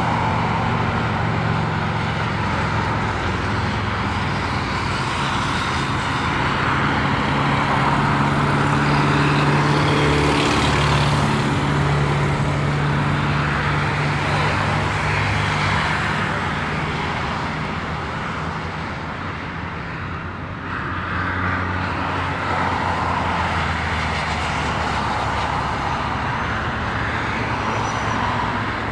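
Jet airliner engines running: a steady rumble and hiss that swells about ten seconds in, eases off around twenty seconds, then picks up again.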